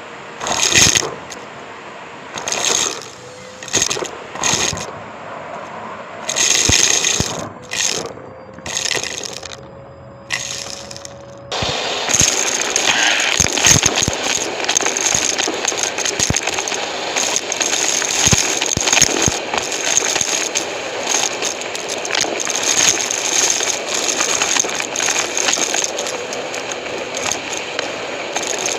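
Numatic James vacuum cleaner sucking up gritty debris that rattles and crackles through it. For the first ten seconds or so it comes in short separate bursts; about twelve seconds in it becomes a continuous dense rattling stream.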